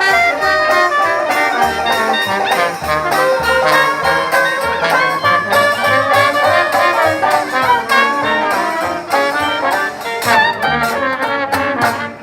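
Brass band music in a jazz style, trumpets and trombones over a walking bass line, winding down and stopping just before the end.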